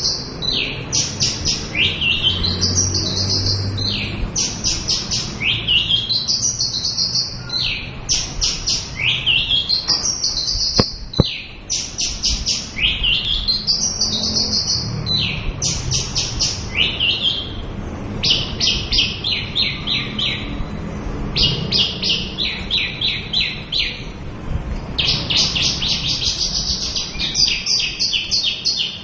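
Javan bushlark singing a continuous, varied song. Repeated phrases each open with a rising sweep and break into a quick run of sharp, high notes. In the second half the song turns to faster trills of repeated notes.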